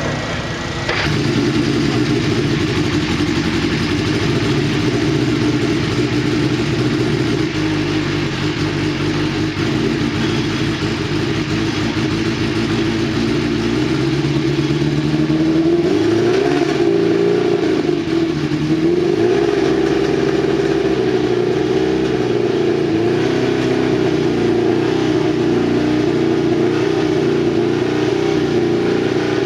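March 85C Indycar's turbocharged Cosworth DFX V8 running, getting louder about a second in. Between about 14 and 20 seconds in, its pitch rises and falls a few times as the throttle is blipped, then it settles back to a steady run.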